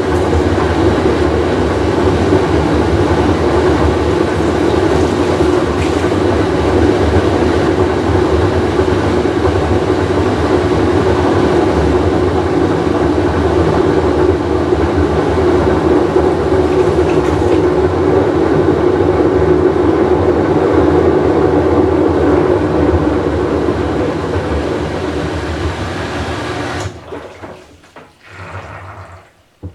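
Whirlpool Cabrio top-load washer running loud, a continuous rumbling roar with a steady drone in it, the sound of its bad tub bearing. About 27 seconds in the roar cuts off sharply, leaving fainter, uneven noise.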